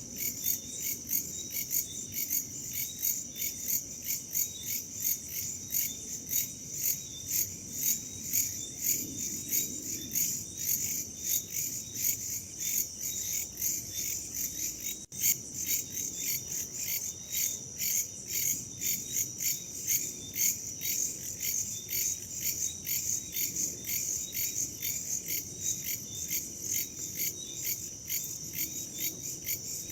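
Chorus of crickets chirping in a steady, even pulse of high-pitched trills, about two a second, over a faint low hiss of wind. The sound breaks off for an instant about halfway through.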